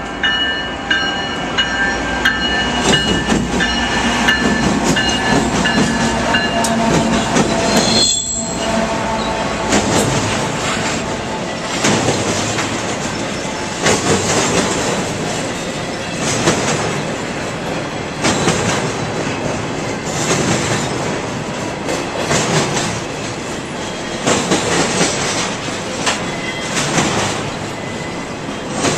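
BNSF freight train rolling past: steel wheels running on the rail, with steady high-pitched ringing tones for the first several seconds and then a regular clack from the rail joints about every two seconds.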